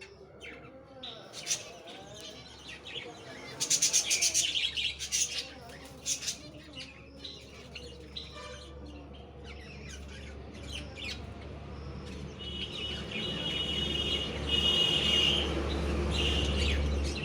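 Finches chirping in quick bursts of rapid high notes, and later a high, steady whistled note, over a low hum that grows louder toward the end.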